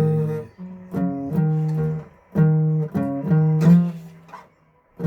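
Acoustic guitar strummed in chords, a new strum every half second or so, with a brief stop about four seconds in before the strumming resumes.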